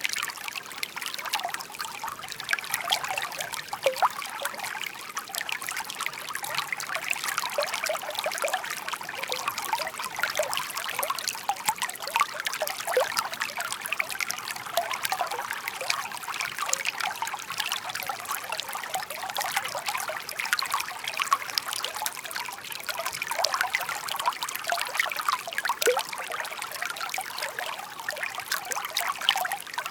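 Shallow park brook murmuring: water trickling and bubbling over stones in a steady stream of small gurgles and plops.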